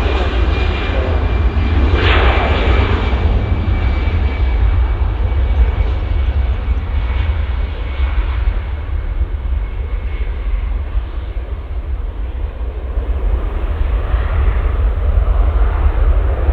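Airbus A320's CFM56 jet engines at takeoff power as the airliner climbs away: a steady deep rumble, with a thin high whine that fades out about ten seconds in.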